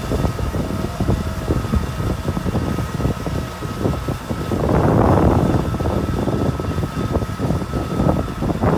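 Kubota M6040 tractor's diesel engine running under load while ploughing, a steady low rumble with a louder rushing swell about five seconds in.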